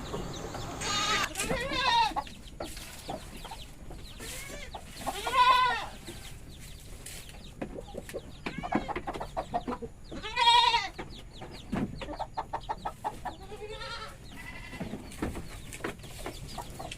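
Goats bleating. Loud, wavering bleats come about a second in, around five seconds and around ten seconds. Short stuttering calls fall between them.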